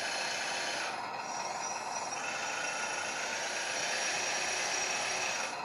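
1:14-scale RC hydraulic bulldozer working its blade into sand: a steady mechanical whine and hiss from its electric motors and hydraulic pump, with a slight change in tone about a second in.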